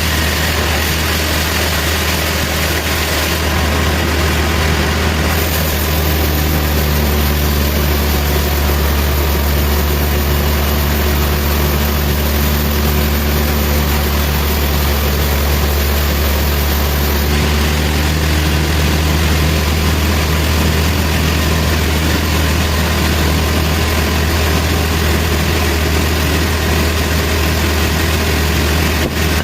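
Sawmill machinery running steadily with a strong low drone. From about six to seventeen seconds in, higher tones and a hiss are added over it.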